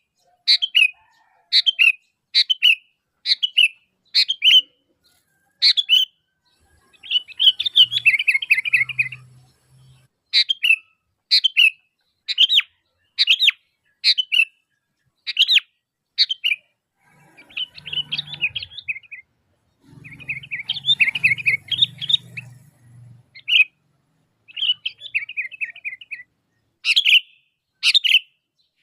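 Sooty-headed bulbul (kutilang) calling loudly: a string of short, sharp notes about one a second, broken several times by longer chattering runs.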